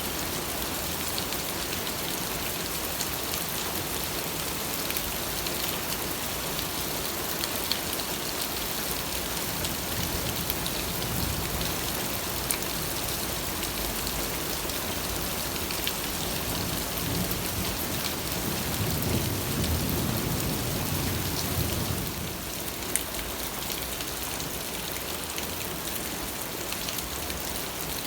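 Steady rain falling, with scattered ticks of single drops. A low rumble swells for a few seconds past the middle and stops short.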